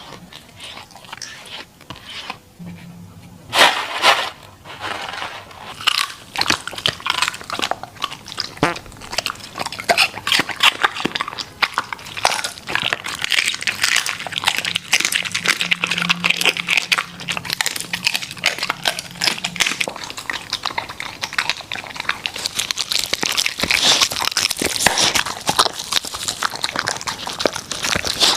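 Border collie eating, with a dense run of crunches, chewing and smacking that starts loudest about three and a half seconds in and carries on irregularly.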